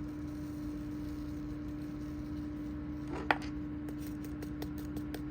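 A steady hum, with one sharp click a little over three seconds in, followed by a run of light clicks and taps.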